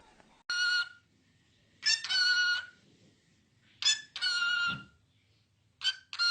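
A bird giving four harsh calls about a second and a half apart, each a short pickup note and then a held call of about half a second.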